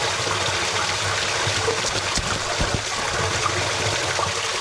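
Steady hiss of rain falling, with a few sharp taps of drops mixed in.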